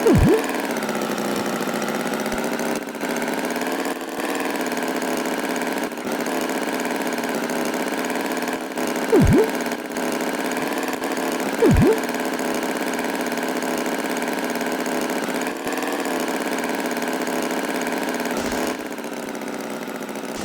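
Cartoon tractor engine running steadily at idle, its pitch wavering slightly. Three short, louder swooping sounds break in: one at the start, one about nine seconds in and one about twelve seconds in.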